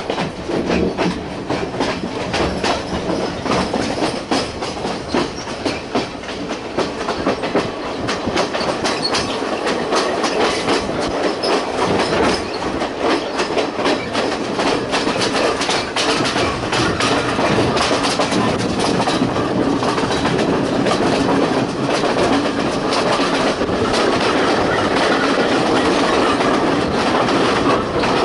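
Passenger train running along the track, its wheels clattering steadily over the rail joints with a continuous rumble, growing a little louder about halfway through.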